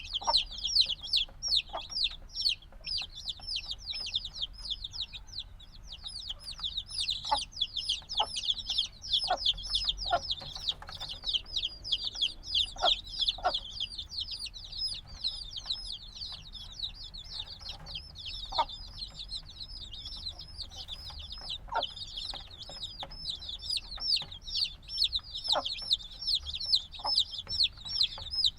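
A brood of chicks a few days old peeping loudly and without a break, many high falling cheeps overlapping, with a few faint knocks underneath.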